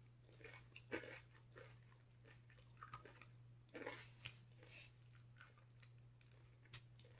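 A person chewing tortilla chips with salsa, quiet irregular crunches as the chips are bitten and chewed. A steady low hum runs underneath.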